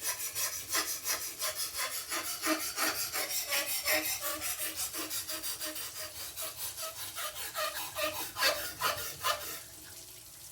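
Steel knife edge scraped back and forth on a coarse sharpening stone in quick, even strokes, a few a second, stopping near the end. The edge is being ground down to remove chips and a recurve left by a pull-through sharpener.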